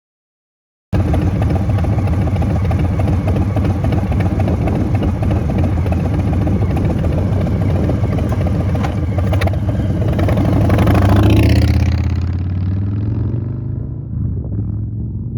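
Harley-Davidson Sport Glide's Milwaukee-Eight V-twin with Vance and Hines Big Shots Staggered pipes, riding past: it cuts in loud about a second in, swells to its loudest about eleven seconds in, drops in pitch as it goes by, then fades away.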